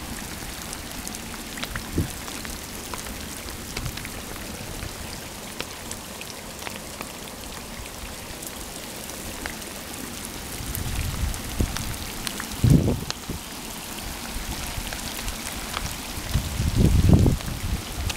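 Heavy rain hissing steadily on a gravel path and bushes, with many scattered sharp ticks of drops striking. Louder low rumbles swell up about two-thirds of the way through and again near the end.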